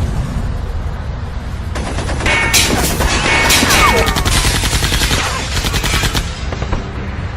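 Rapid automatic gunfire: a dense run of sharp shots starting about two seconds in and lasting around four seconds, over a continuous low rumble.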